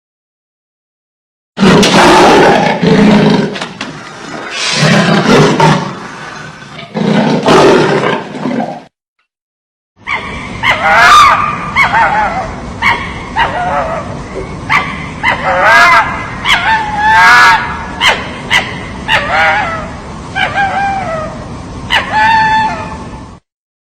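Animal calls in two separate stretches. First come loud, rough calls in several bursts. After a short silence comes a run of short, high-pitched yelping calls that bend up and down in pitch, many in a row.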